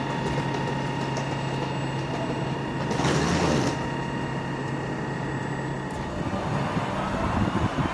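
Electric trains at a station: a steady electric hum with a brief loud hiss about three seconds in. The hum stops around six seconds in, and a rising whine with a few knocks follows as another train gets under way.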